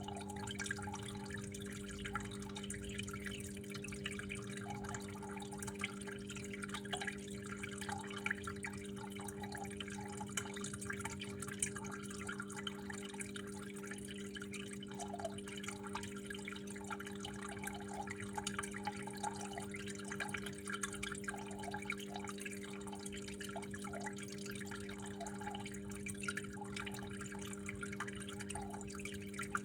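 Water trickling and dripping continuously, with many small irregular splashes, over a steady low hum.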